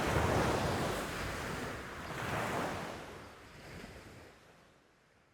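Wind buffeting the microphone over rushing, splashing sea water, swelling and easing twice, then fading out near the end.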